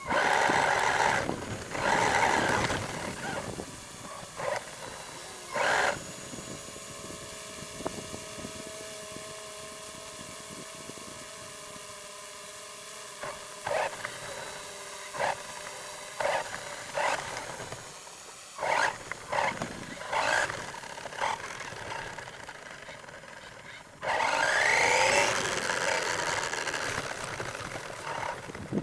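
R/C monster truck driving, its motor whining up in short bursts of throttle, with longer full-throttle runs near the start and near the end.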